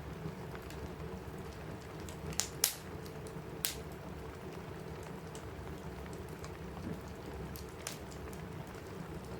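Steady rain on a roof, with a log fire crackling and giving a few sharp pops, the loudest pair about two and a half seconds in and another about a second later.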